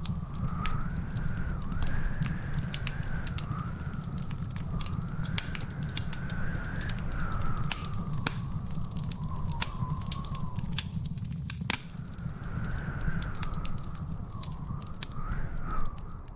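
Wood fire in a fireplace crackling, with frequent sharp pops and snaps over a steady low rumble. A thin whistle wavers slowly up and down in pitch throughout.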